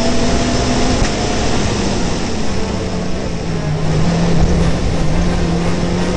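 Rally car engine heard from an onboard camera mounted on the car, running hard with road and wind noise. Its note falls about a second in, holds lower, then starts to rise again near the end.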